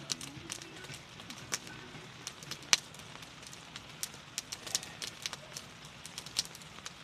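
Wood fire crackling, with irregular sharp pops; the loudest pop comes a little under three seconds in.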